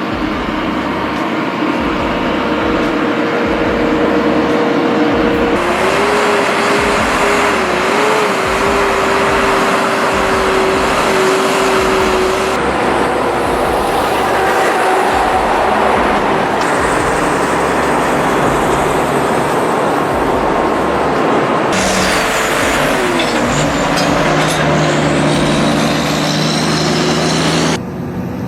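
Heavy truck engines and road noise running loud, broken into several short clips that cut abruptly every few seconds. A steady whine in one stretch wavers slightly in pitch, and near the end a lower engine tone drops in pitch.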